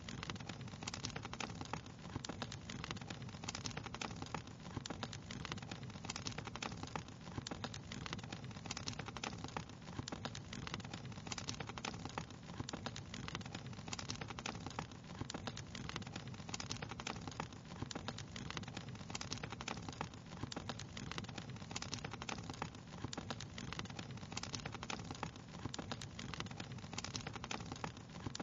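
Wood fire crackling steadily, with many small pops and snaps over a low, even hiss.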